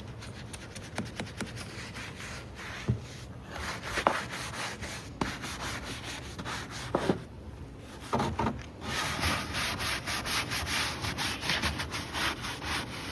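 Rusty steel truck frame being scraped by hand: rasping strokes with a few sharp knocks, turning into quick, rhythmic back-and-forth scraping in the last few seconds.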